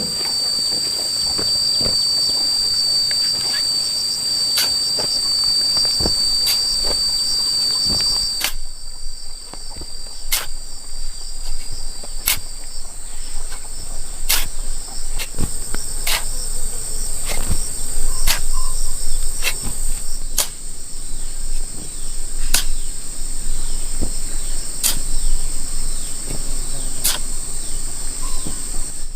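Insects trilling steadily in two high tones, the lower one stopping about a third of the way in, with sharp knocks every second or two.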